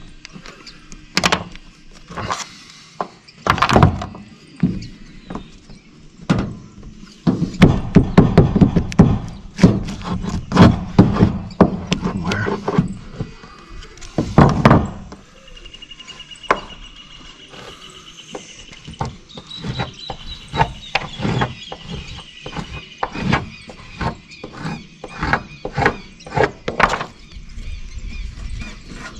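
Irregular knocks, thuds and clatter of hands-on building work. They bunch into a dense run of knocking about a third of the way in and another burst about halfway. A thin high steady tone sounds through the second half.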